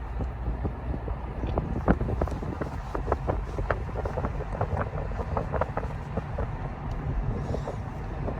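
Road noise of a moving vehicle: a steady low rumble with frequent small clicks and rattles, and wind buffeting the microphone.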